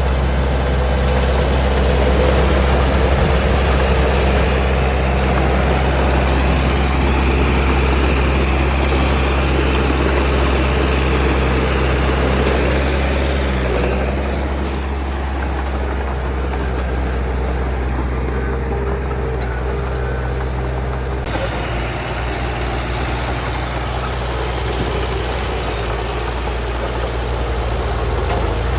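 Bulldozer's heavy diesel engine running steadily at a constant pitch. The sound changes abruptly about three-quarters of the way through, then carries on the same.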